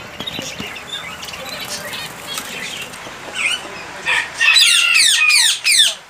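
Caged pet birds calling: scattered short chirps, then about four seconds in a loud run of rapid, harsh falling squawks lasting over a second.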